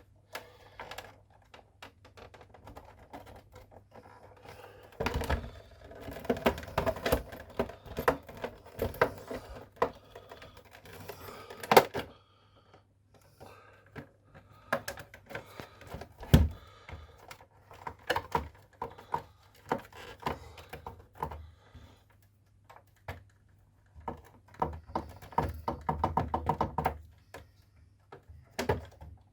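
A pry tool working the clips of a Nespresso Citiz coffee machine's plastic side panel: runs of rapid clicking and tapping, with a couple of sharp snaps as clips let go.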